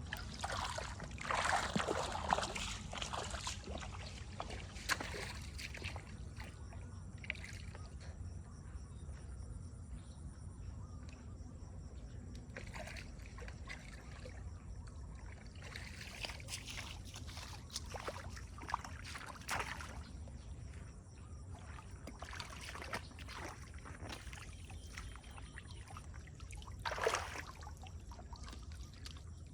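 Water sloshing and splashing in irregular bursts, as in debris being worked loose from a clogged drain or culvert, over a steady low rumble of flowing water. The splashing is strongest about two seconds in and again near the end.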